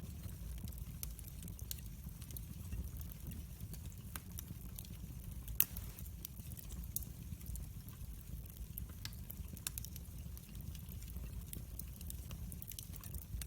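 Wood fire burning in a fireplace, crackling with irregular sharp pops over a steady low rumble, one louder pop about halfway through.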